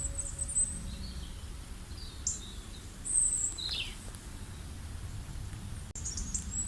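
Birds chirping: scattered short high calls every second or two, the loudest about three seconds in, over a low steady rumble of background noise. A singing bowl's ring fades out in the first second.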